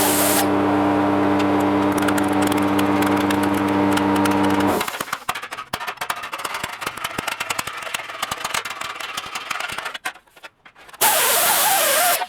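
A machine motor runs steadily at one pitch and cuts off suddenly about five seconds in, followed by irregular crackling clicks.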